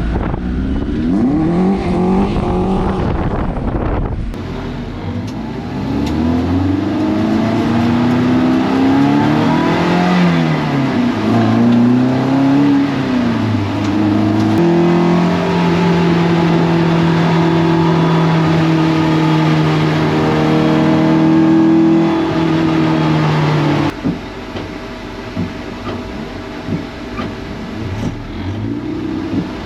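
Toyota MR2 race car engine revving up and down repeatedly, then holding a steady high-rev note for about nine seconds, which cuts off abruptly near the end.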